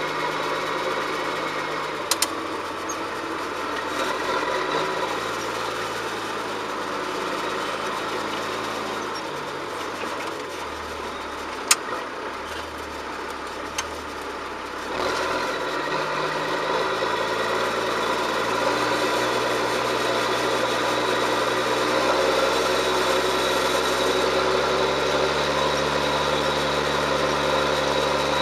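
John Deere 7710's six-cylinder diesel engine running under ploughing load. Its revs sag to a lower note about nine seconds in, rise sharply again about halfway through and climb a little higher later, with a few brief clicks along the way.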